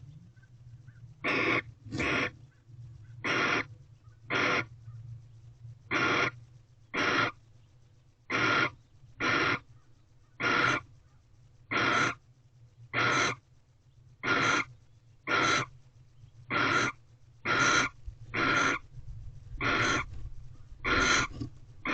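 Barn owl giving harsh, rasping hiss-screeches in a steady series, about one call a second, each lasting about half a second.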